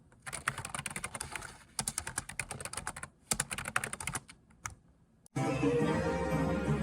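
Typing on a computer keyboard: rapid key clicks in bursts separated by short pauses. Background music cuts in suddenly about five seconds in.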